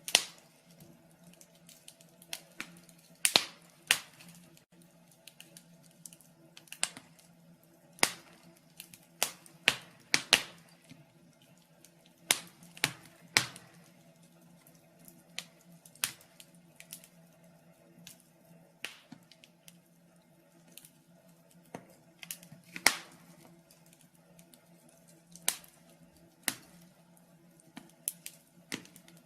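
Wood fire in a fireplace crackling: irregular sharp pops and snaps of uneven loudness, a few each second, over a faint steady hum.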